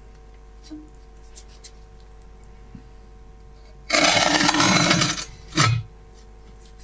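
Steel sliding damper plate of a fireplace flue scraped along its frame in one loud scrape of about a second, starting about four seconds in, followed by a short knock as it stops. This is the damper being opened and shut to check that it slides freely and sits straight.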